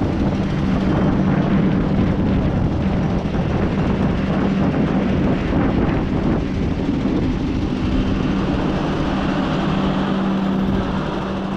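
Vande Bharat electric trainset running along the track below as it departs: a steady rumble with a constant low hum.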